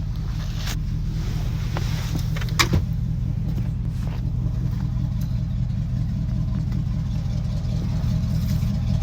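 Car engine running steadily at a low pitch, slowly growing louder, with a few sharp metallic clicks about a second in and again between two and three seconds in.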